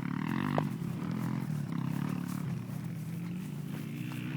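Small off-road engine running steadily at low revs, a continuous low drone.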